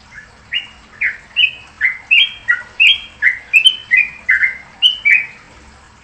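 A songbird calling a quick run of about fourteen short, loud chirps, alternating between higher and lower notes at roughly two to three a second, then stopping about a second before the end.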